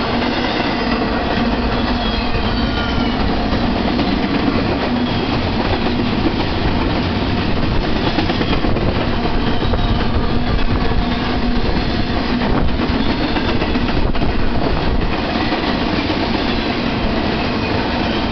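Empty intermodal well cars of a BNSF freight train rolling past close by: a steady, loud noise of steel wheels running on the rails.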